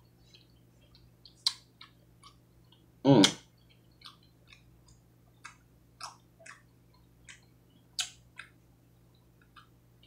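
Close-up chewing and wet mouth clicks of a person eating cheesy chicken, several soft clicks a second, with one louder mouth sound about three seconds in.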